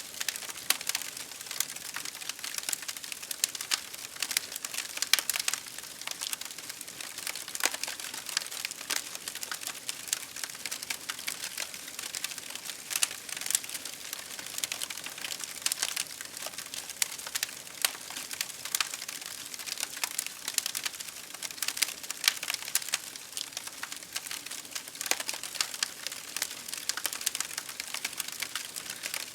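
Campfire crackling: a dense, irregular run of small pops and snaps over a steady hiss of rain.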